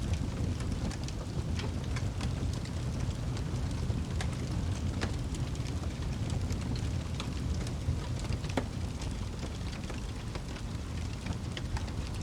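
Wood fire burning in a fireplace: a steady low rumble of flames with frequent small crackles, and a couple of sharper pops, one near the middle and one about two thirds of the way through.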